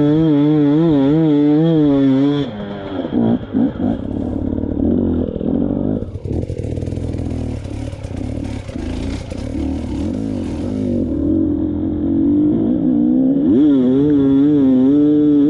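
Dirt bike engine revving, its pitch rising and falling quickly with the throttle. About two and a half seconds in, the sound cuts to a rougher, noisier stretch with knocks, and near the end it returns to the wavering rev.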